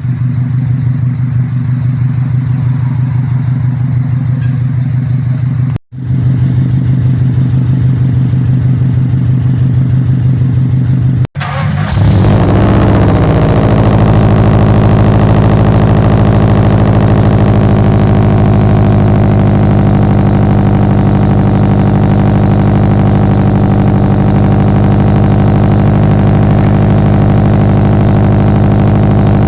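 Subaru Impreza WRX flat-four boxer engine idling with its uneven exhaust rumble, in three clips cut together. About twelve seconds in the engine revs briefly, then settles into a louder steady idle.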